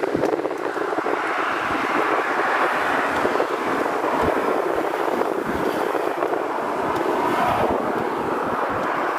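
Wind gusting across the microphone in irregular low buffets, over a steady rushing noise.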